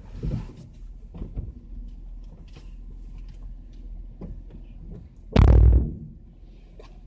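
Scattered knocks and clicks of things being moved about inside a pickup truck's cab during a search, with one loud, heavy thump about five and a half seconds in.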